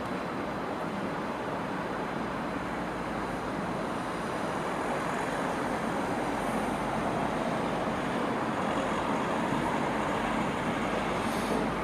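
Steady rumble of a Thurbo Stadler GTW train approaching along the track, growing slowly louder.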